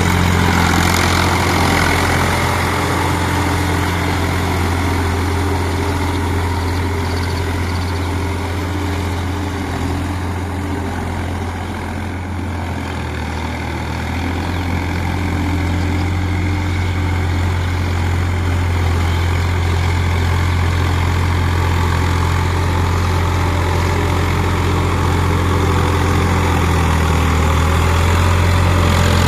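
New Holland tractor's diesel engine running steadily with a deep low hum, easing off a little about halfway through and then picking up again.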